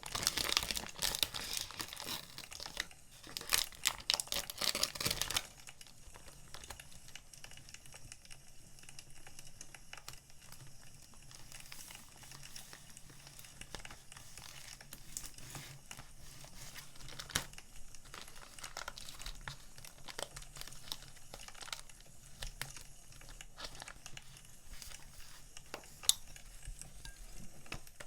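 Sticker packaging crinkling as it is handled, loud for about the first five seconds, then softer. Behind it runs a wood fire crackling with scattered small pops, and there is one sharp click near the end.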